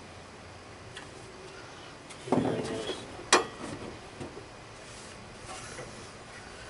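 Parts or tools being handled: a short scraping clatter about two seconds in, then a single sharp click and a few light knocks.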